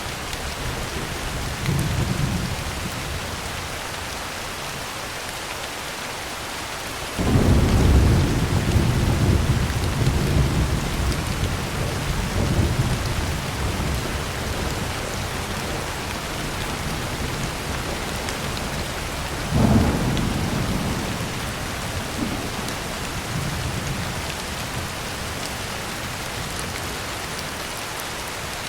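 Heavy rain pattering steadily on a tin roof, with thunder rolling over it. There is a faint rumble about two seconds in, a sudden loud clap about seven seconds in that rumbles on for several seconds, and another sharp peal about twenty seconds in that fades away.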